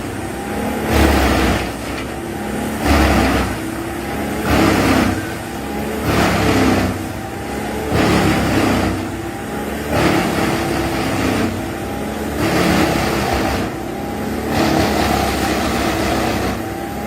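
Bandit 21XP drum wood chipper running under load, its engine straining in loud surges about every second and a half to two seconds as the drum chews into wood.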